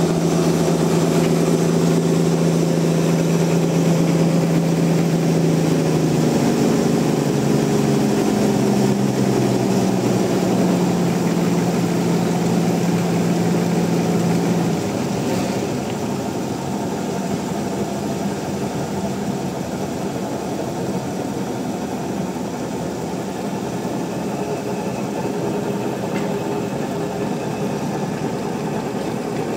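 Large engine running steadily. Its pitch shifts about six seconds in, and about halfway through the sound drops to a lower, steady mechanical hum.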